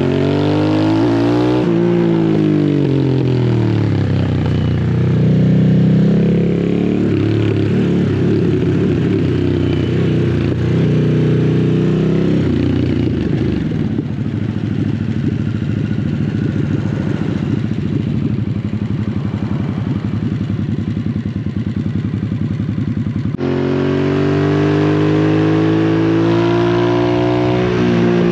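Harley-Davidson Sportster S's liquid-cooled 1250 cc Revolution Max V-twin through a slip-on exhaust, the revs rising and falling repeatedly as the bike accelerates and rolls off the throttle. A lower, rougher stretch of engine braking runs through the middle, and the engine pulls up again near the end.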